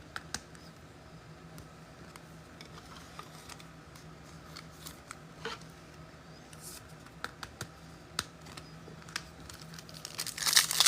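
Scattered light clicks and taps of trading cards being handled, then near the end the loud crinkling of a card pack wrapper being torn open.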